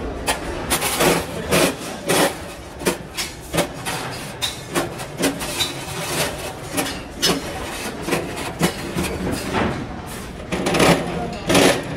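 Repeated sharp knocks and taps, roughly two a second, from hand work on an iron-wire bird cage. The knocks grow louder near the end.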